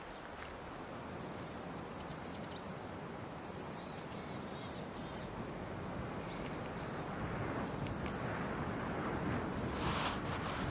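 Small birds calling over a steady background hiss: a falling run of high, quick notes near the start, then scattered short chirps.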